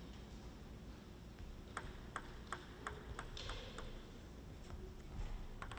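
Table tennis ball clicking against the table and bats: a run of six sharp ticks about two or three a second starting nearly two seconds in, then two more close together near the end, over a faint hall hum.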